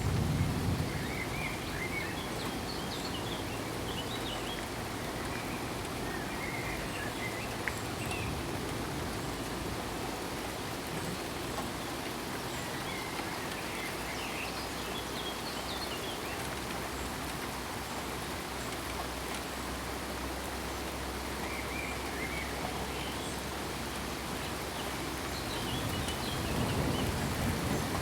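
Steady rain falling, with a low rumble of thunder at the start and another rumble building near the end.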